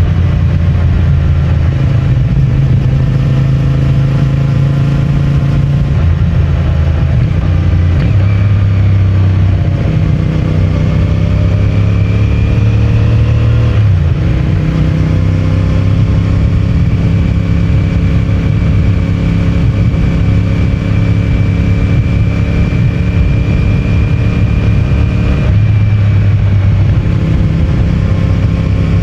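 CFMOTO 450MT's parallel-twin engine and stock exhaust running under way, the engine note holding steady, then stepping to a new pitch several times as throttle and gears change, most sharply about halfway through.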